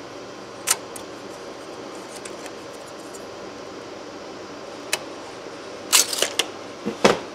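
Sharp clicks and clinks of hand tools and metal being handled on a workbench: single ones about a second in and about five seconds in, then a quick cluster near the end, over a steady background hum.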